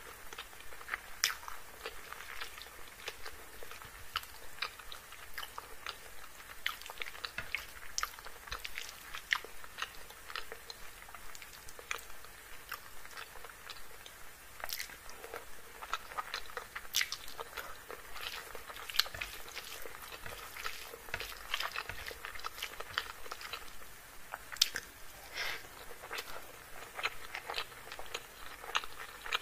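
Close-miked chewing and biting of chicken curry and rice eaten by hand, a steady run of wet mouth sounds with many short sharp clicks, along with the squish of fingers mixing rice into the curry.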